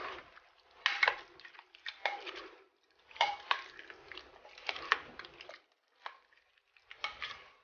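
A spoon stirring sauce-coated chicken pieces in a slow cooker crock, clinking against the side of the pot with wet squishing, in short bursts of strokes with brief pauses.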